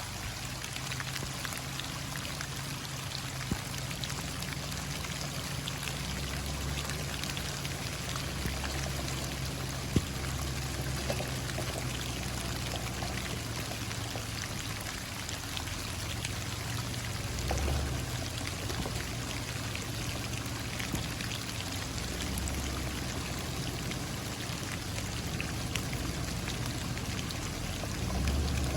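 Steady rain falling, a constant patter of drops, over a low steady hum.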